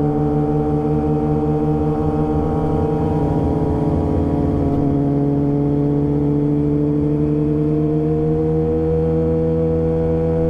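Motorcycle engine running at a steady cruise, its pitch rising slowly over the second half as the bike speeds up, with low wind rumble.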